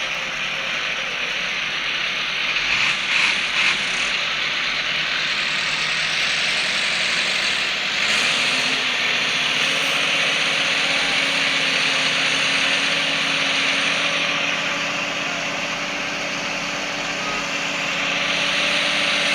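Tractor engines running steadily, hitched to pull out a truck stuck in soft ground, with a steady engine hum coming up about eight seconds in.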